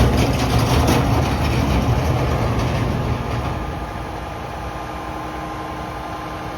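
Mack MRU garbage truck's engine running loudly, with some rattling in the first second, then dropping back to a steady idle about three and a half seconds in.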